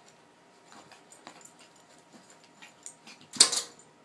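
Corgi puppy giving one short, high bark at its own reflection about three and a half seconds in, with a few fainter small sounds before it.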